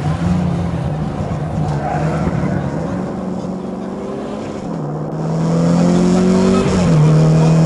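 Volkswagen Golf 2 GTI rally car's four-cylinder engine running hard, heard from inside the car. The revs climb steadily through the second half and drop sharply on an upshift about seven seconds in.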